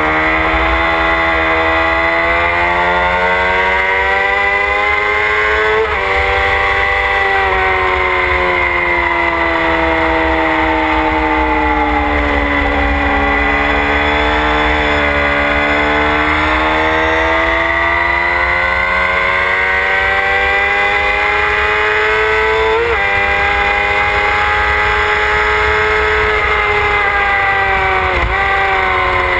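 Motorcycle engine running hard on the move, its note climbing and falling with the throttle, with two sudden drops in pitch at upshifts and a quick run of downshifts near the end. Wind rushes over the onboard mic underneath.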